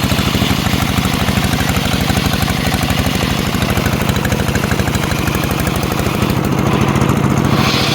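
Engine powering a homemade circular sawmill, running steadily with a fast, even chugging. The higher hiss above it eases off about six seconds in.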